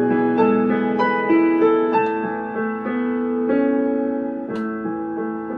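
Yamaha P-225 digital piano playing its built-in demo song: a gentle piano melody over held chords, with a new note struck about every half second.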